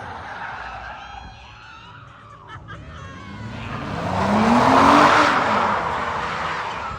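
A car sliding past with its engine revving up and back down while its tyres skid. The sound builds to its loudest about five seconds in, then fades.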